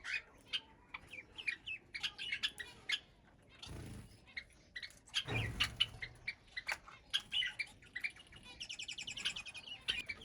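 A mixed flock of aviary birds, a cockatiel among them, chirping and calling over one another in many short notes, with a fast rapid trill a little before the end. Two brief rustling bursts come about four and five and a half seconds in.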